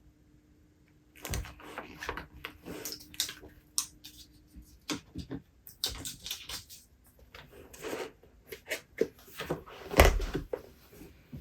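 Objects being handled on a desk: irregular rustling, taps and knocks beginning about a second in, with a louder thump about ten seconds in.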